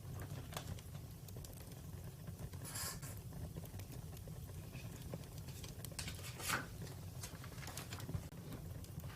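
Wood fire crackling: scattered sharp pops and snaps over a steady low rumble, with the loudest pops about three seconds in and again past six seconds.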